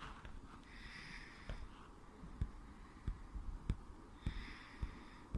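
A person breathing twice near the microphone, about a second in and again near the end, with scattered light knocks and bumps of handling.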